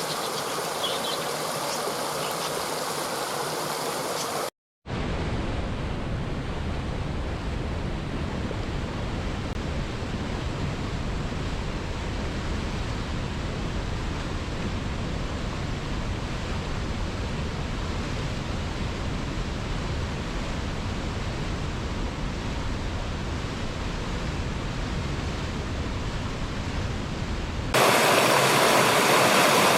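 Waterfall rushing steadily, with faint insect chirps over it at first. About four seconds in the sound drops out for a moment, then returns as a deeper, duller rush; near the end it switches abruptly to a louder, brighter rush.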